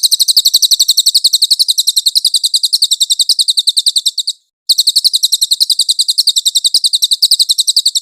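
Cililin bird singing a clear, fast trill of high notes, about ten a second, in two long runs with a brief break about four and a half seconds in.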